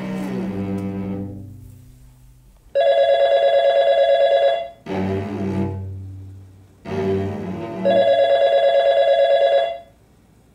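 A corded desk telephone ringing twice, each ring about two seconds long with a fast warble. Slow, low bowed cello notes play before and between the rings.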